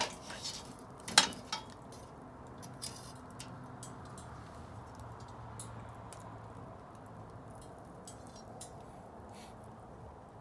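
Wood bonfire crackling, with two loud snaps at the start and about a second in, then scattered fainter pops over a low steady rush of the flames.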